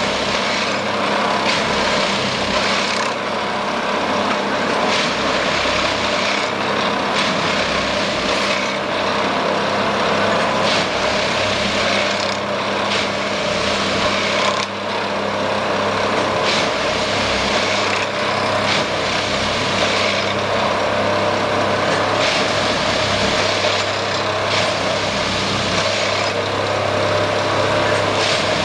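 Plasser & Theurer Duomatic 08-32 ballast tamping machine at work: its diesel engine runs with a steady hum, while short sharp sounds from the tamping cycle recur irregularly every second or two.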